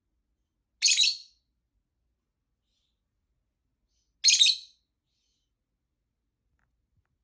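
Female lovebird giving two short, shrill, high-pitched calls, about three seconds apart.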